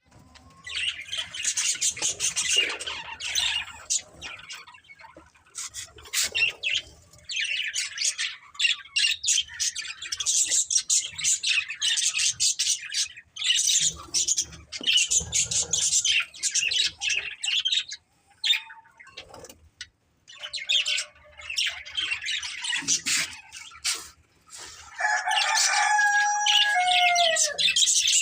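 Budgerigars chattering and warbling in bouts of rapid high-pitched chirps, with short pauses between them. Near the end comes a lower, held note that falls in pitch.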